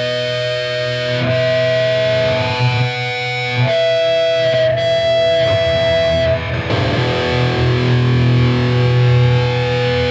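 Hardcore band playing live with heavily distorted electric guitars holding long, ringing chords that change every few seconds, with no vocals.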